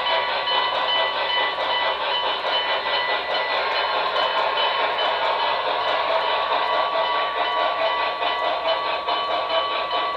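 HO-scale Reading T-1 steam locomotive model's Paragon 3 onboard sound decoder playing steady steam-locomotive running sounds through the model's small speaker, thin with little low end.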